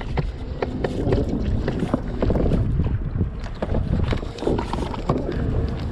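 Wind rumbling on the microphone and water around a fishing kayak, with many short clicks and knocks from handling on the hull.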